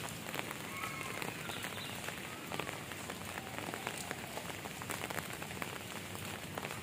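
Steady rain falling on hard surfaces, a constant hiss dotted with many separate drop ticks.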